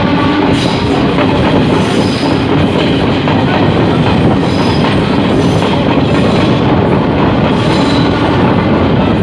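DEMU (diesel electric multiple unit) passenger train running at speed, heard from an open coach window: a steady rumble and rush of the wheels on the rails, with a brief high squeal from the wheels now and then.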